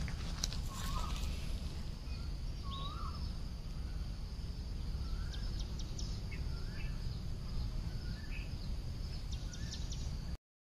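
Outdoor ambience: a bird calling short, slurred chirps roughly once a second over a steady high hiss and a low rumble. The sound cuts off shortly before the end.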